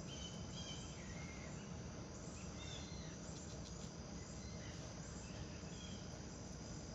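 Steady chirring of insects, with a few short bird chirps in the first half.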